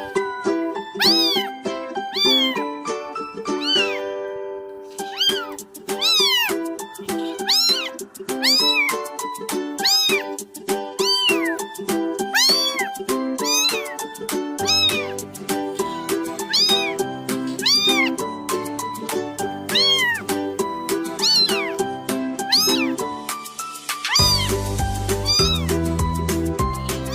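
Background music with repeated cat meows, each a rising-then-falling call, about one a second over a melody. A bass line comes in about halfway through and grows stronger near the end.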